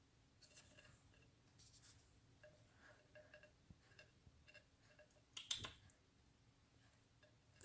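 Faint small clicks and scratches from a cockatiel moving about at her nest, with one louder brief rustling scrape about five and a half seconds in.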